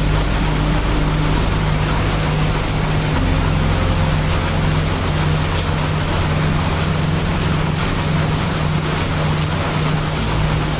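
Heavy rain falling in a dense, steady hiss over a low, continuous rumble of brown noise.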